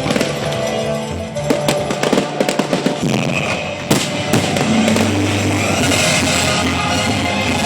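Fireworks crackling and popping in a rapid string for the first half, with one sharp bang near the middle, over loud music that carries on alone afterwards.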